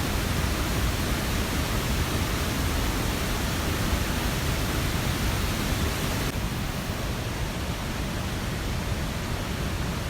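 Steady rushing water noise with no distinct events. About six seconds in, the high hiss drops away abruptly, leaving a softer, lower rush.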